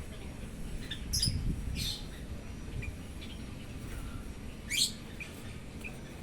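Sooty-headed bulbul (kutilang) giving a few short, high squawky calls and chirps, the loudest a quick rising call about five seconds in.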